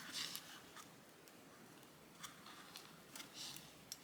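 Faint, sparse snips and paper rustles of stickers being cut out and handled, a handful of soft short clicks spread through an otherwise very quiet stretch.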